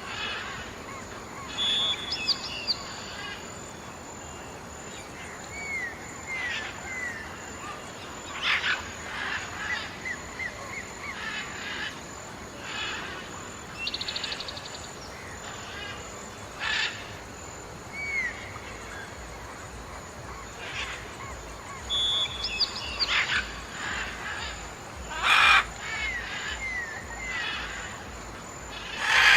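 Several wild birds calling: scattered chirps and short curved whistled notes, with a few louder harsh calls standing out now and then over a steady background hiss.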